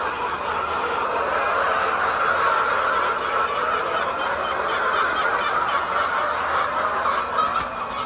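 A large flock of laying hens clucking and calling all at once, a steady dense chorus of overlapping voices.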